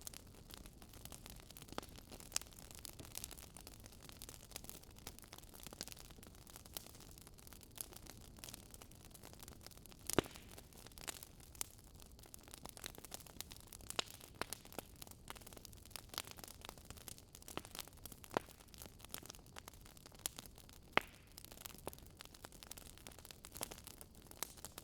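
Wood fire crackling: irregular small pops and snaps over a faint steady hiss, with a louder pop about ten seconds in and another about twenty-one seconds in.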